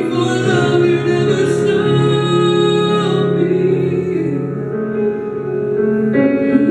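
Live ballad music: a female singer holding long wordless notes over instrumental backing, the sound thinning out about four seconds in and swelling again near the end.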